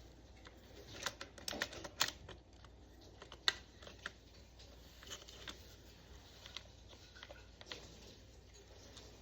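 Scattered light clicks and taps of small hard objects being handled, bunched in the first few seconds and sparser after that.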